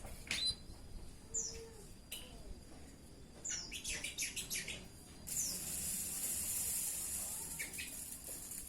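Domestic canary calling in short, falling high chirps, with a quick run of notes a little before four seconds in. From just after five seconds a steady high hiss sets in and lasts nearly to the end.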